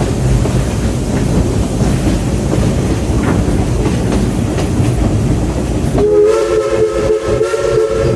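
Narrow-gauge steam train running with a steady rumble and wheel clatter on the rails. About six seconds in, the locomotive's steam whistle starts a long chord of several notes.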